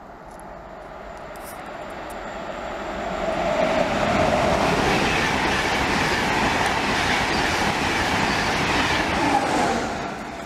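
Express passenger train passing through the station at speed. It rises as it approaches, holds a loud rushing roar of wheels on rail as the coaches go by, then falls away quickly as the tail clears.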